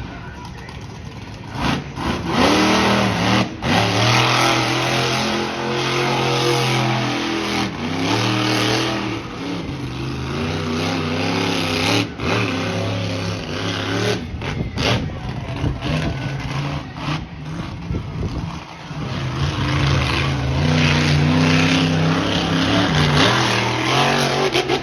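Monster truck engine revving hard, its pitch climbing and dropping again and again, with a few sharp bangs along the way.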